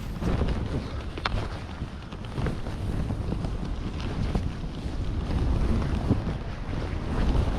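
Wind buffeting the microphone: a rough, uneven low rumble, with scattered faint clicks above it.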